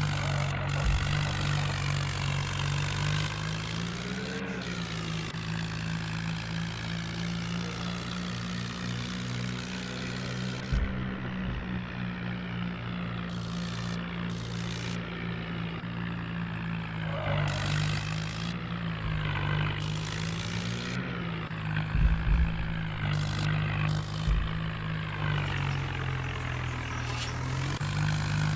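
Tractor engine running steadily, rising slightly in pitch a few times as it is revved a little, with a few sharp knocks about a third of the way in and again about three quarters through.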